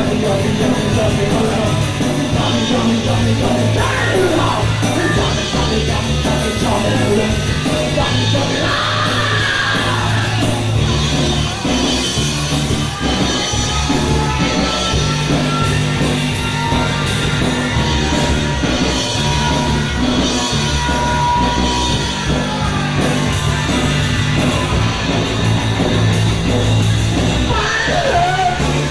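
Punk rock band playing live and loud, with guitars, bass and crashing cymbals, and shouted vocals coming in now and then.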